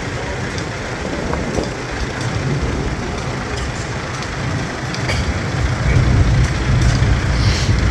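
Antique farm tractor engine running as it drives past at parade pace, a low rumble that gets louder about two thirds of the way in.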